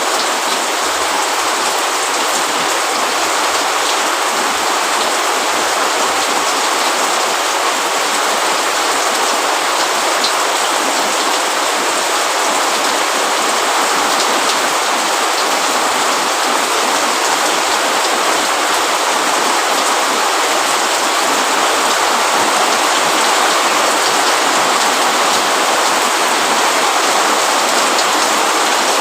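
Steady rain falling on a roof and leaves, a dense even hiss with scattered droplet ticks.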